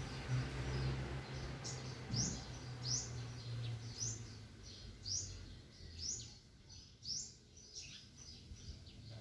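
Birds chirping: a repeated series of short, high chirps, about one or two a second, over a low background rumble that fades out about halfway through.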